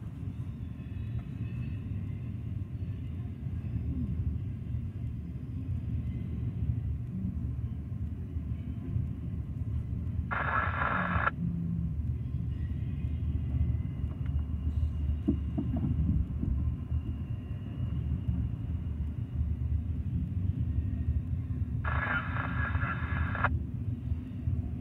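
Freight train cars rolling past in a steady low rumble. Two short bursts of radio scanner static come through, one about ten seconds in and a longer one near the end.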